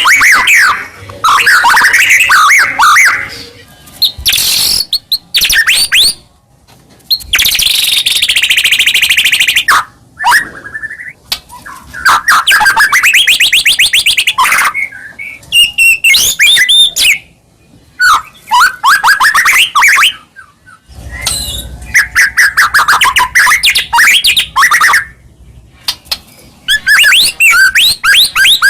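White-rumped shama (murai batu) singing loud and close in full song: a long run of varied phrases of whistles, fast trills and rapid chattering note series, broken by short pauses.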